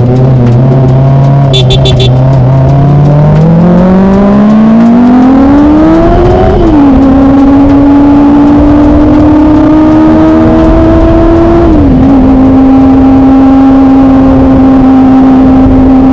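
Kawasaki ZX-25R's 250 cc inline-four engine revving up smoothly and high, with an upshift about six and a half seconds in and another near twelve seconds, after which it holds a steady high cruise.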